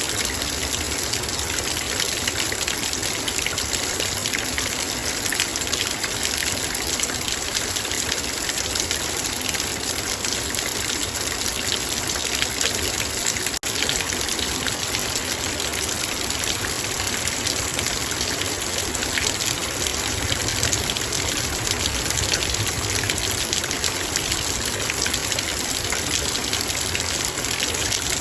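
Heavy rain drumming on a metal bowl, a dense steady patter of many drops hitting metal. There is a momentary dip in level about halfway through.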